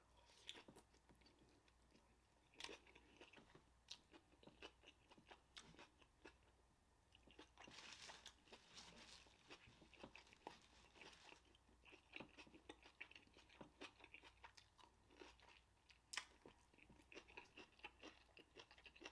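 Faint close-up chewing of a bite of onion-wrapped cheeseburger: scattered soft crunches and wet mouth clicks, coming more thickly about eight seconds in and again a few seconds later.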